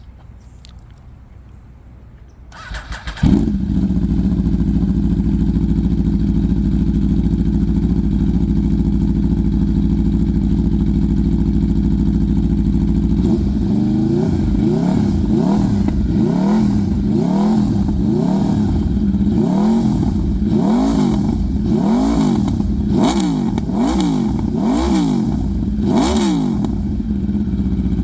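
Aprilia RSV4 1100 Factory's V4 engine, fitted with a titanium Racefit Growler slip-on exhaust for a near straight-pipe sound, starting about three seconds in with a short crank and catching, then idling steadily. From about halfway it is revved in a series of short throttle blips, each rising and falling in pitch, before settling back to idle near the end.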